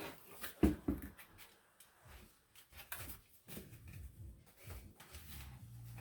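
Scattered knocks and clicks of objects being handled, the two loudest about half a second and a second in, followed by softer rustling; a low steady hum starts near the end.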